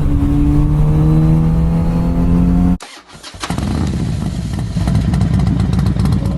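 Kawasaki Z900RS Cafe's inline-four engine pulling in gear, its note rising slowly. Just under three seconds in it cuts off abruptly, and after a brief dip a rougher, noisier stretch of engine sound follows.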